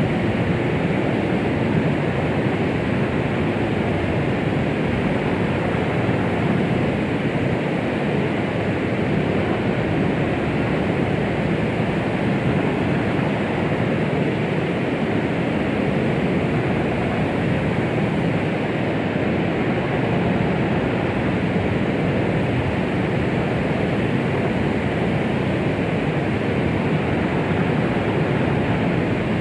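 Steady white-noise rush made to imitate the sound of the womb for settling a baby: an even, unchanging hiss, fullest in the low and middle range and thinning out toward the top.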